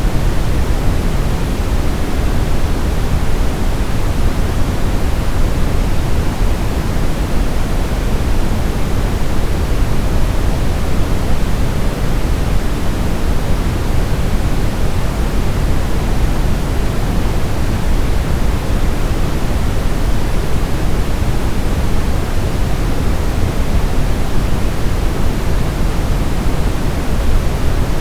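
Continuous sleep-aid noise: a steady, unchanging hiss, fuller in the low end than in the highs.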